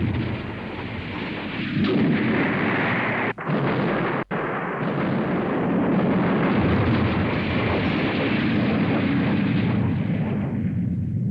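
Animated space-battle sound effects: a continuous rumble of explosions and weapons fire, broken by two very brief dropouts a little over three and four seconds in, and easing off near the end.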